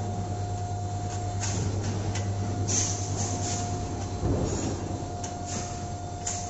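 CNC 3D wire bending machine with a rotating head running: a steady low hum with a constant whine over it, short hisses every second or so, and a low clunking rumble about four seconds in.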